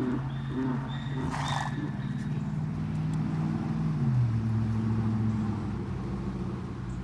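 An engine running steadily, its pitch stepping down about four seconds in, with a brief rustle about a second and a half in.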